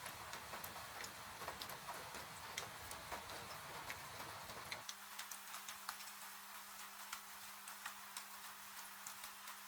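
Wood fire crackling with irregular sharp pops and snaps over a steady hiss of falling rain. About five seconds in, the low rumble underneath drops away and a faint steady low hum takes its place.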